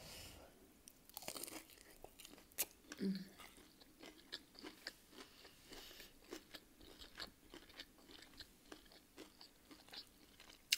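Crunching and chewing of a sauce-dipped breaded chicken strip: a run of small, irregular crisp crunches, with one sharp click near the end.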